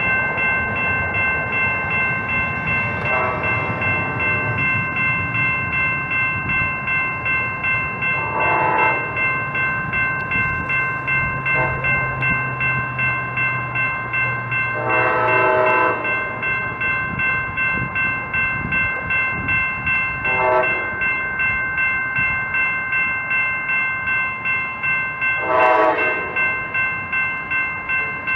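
Train horn sounding six separate blasts of different lengths, the longer ones about a second and a half. Under them runs a steady ringing that pulses about twice a second, with a low rumble between about 10 and 17 seconds in.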